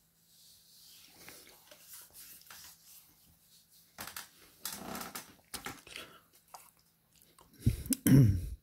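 Close-miked chewing of a mouthful of chips and spaghetti, with wet mouth clicks and smacks growing louder about halfway through. Near the end comes a short, loud, low voice-like sound.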